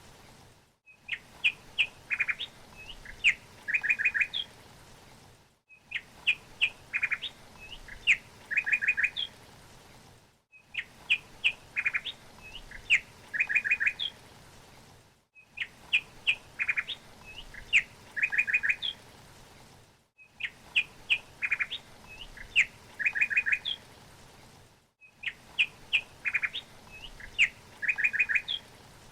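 Songbird chirps and short rapid trills in a pattern repeated identically about every five seconds, with a brief moment of silence between repeats: a single bird-song recording played on a loop.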